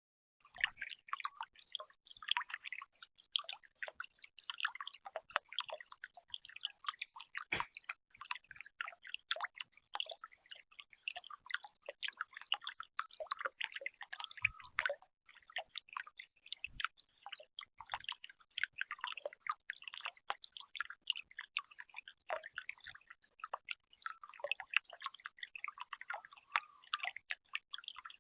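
Water dripping and trickling in a bird bath: a steady run of small, irregular drips and splashes, with an occasional soft thump.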